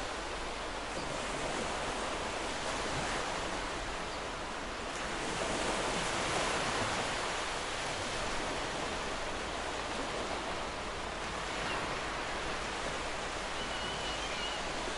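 Sea waves washing onto a shore: a steady wash of surf noise that swells gently and ebbs.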